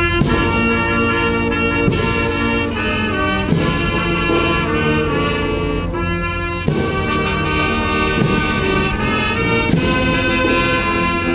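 Military brass band playing a slow, stately ceremonial piece in sustained chords, with sharp drum and cymbal strikes about every second and a half.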